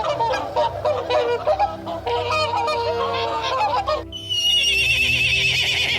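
A flock of waterfowl honking and calling over each other, with steady background music underneath. About four seconds in, the honking gives way to a high, rapidly warbling call.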